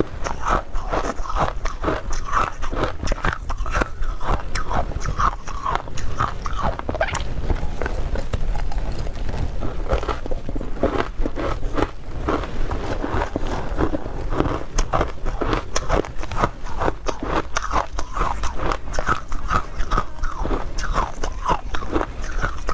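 A person biting and chewing ice: a steady run of sharp crunches and crackles with no break.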